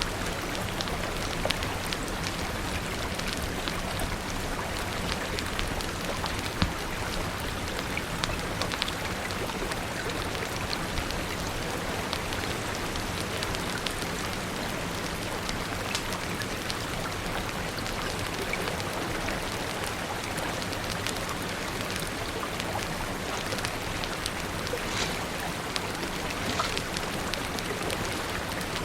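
Steady rain with a fire crackling, scattered sharp pops and clicks over the even hiss of the rain.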